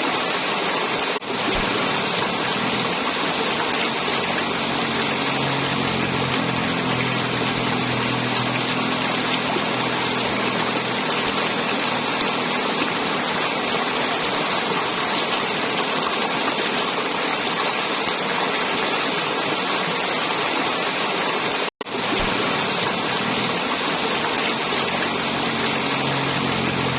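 River water flowing and gurgling steadily, cutting out for an instant about two-thirds of the way through.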